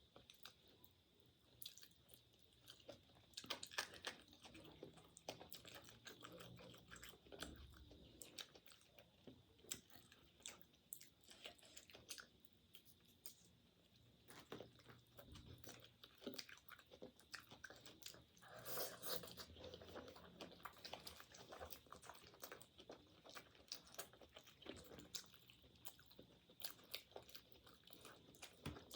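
A person chewing and biting food close to the microphone: irregular crunches and wet mouth clicks, busiest a few seconds in and again past the middle.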